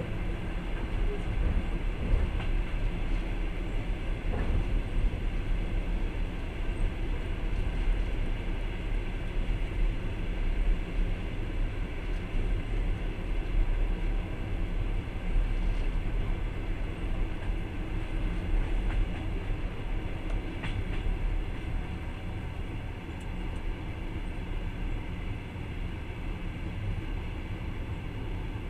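Passenger train running at speed: a steady rumble of wheels on rails, heard from inside the carriage, with a few faint clicks and slightly quieter near the end.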